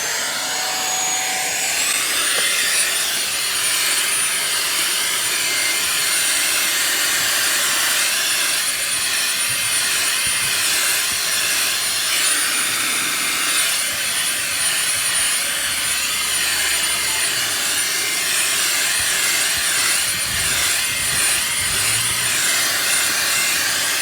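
Fanttik Slim V8 Mate cordless handheld vacuum running with its wide dog-hair nozzle on a car floor mat: a steady high-pitched motor whine over a rush of suction air. The whine steps up in pitch about two seconds in as the motor speeds up, then holds steady.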